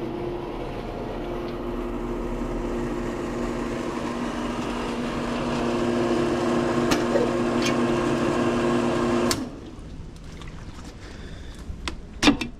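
Swimming pool pump motor running with a steady hum, cut off abruptly about nine seconds in as the pump is shut down for priming. A few sharp knocks follow near the end.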